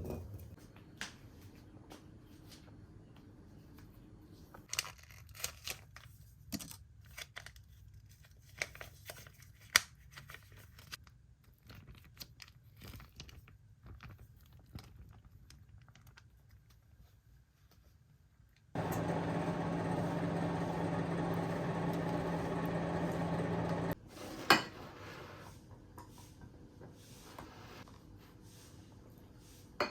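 Kitchen handling sounds: scattered light clicks and knocks, then a steady motor hum from a small appliance for about five seconds that starts and stops abruptly, followed by one sharp knock.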